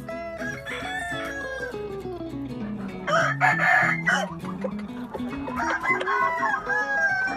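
Gamefowl rooster crowing, with one loud crow lasting about a second starting about three seconds in, over background guitar music.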